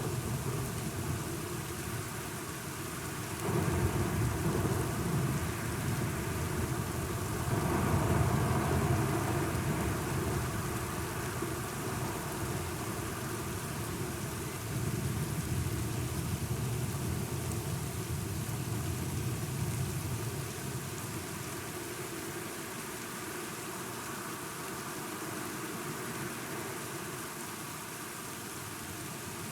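Steady rain falling, with low rolls of thunder swelling up and fading several times: one a few seconds in, a louder one about a quarter of the way through, and a weaker one about halfway.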